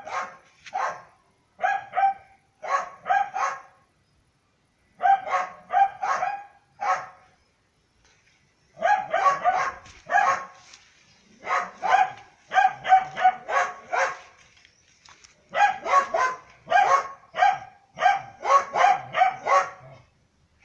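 Dogs barking: short runs of two to four barks separated by brief silences, turning into near-continuous barking from about nine seconds in.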